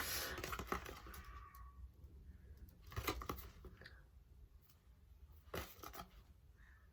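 Faint handling noise in a quiet small room: paper-like rustling with a couple of short clicks, about three seconds in and again a little more than two seconds later.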